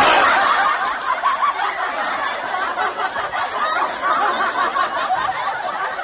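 Many people laughing and chuckling together, starting suddenly and loudest at the start; a comedy laugh track.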